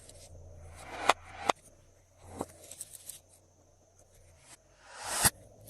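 Glossy slime being worked by hand, with soft sticky crackle and a few sharp pops. Each pop is over quickly. The loudest pop comes after a swelling squelch about five seconds in.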